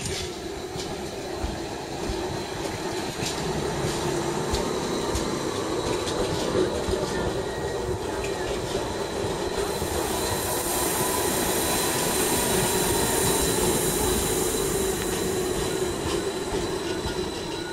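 Gornergratbahn electric rack-railway train running past at the stop, with a steady hum from its drive and running gear and a few clicks. A high hissing squeal from the wheels comes in about halfway through and fades a few seconds later.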